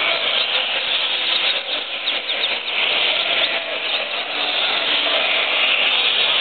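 Many caged coleiros (double-collared seedeaters) singing at once, a dense, overlapping chorus of chirps and trills.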